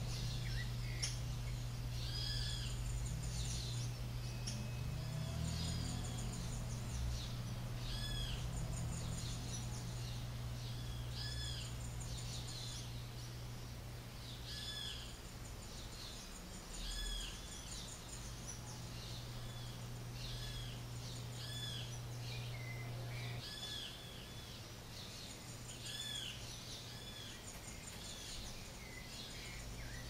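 Birds calling, short rising-and-falling chirps repeated about once a second, over a high insect buzz and a steady low hum.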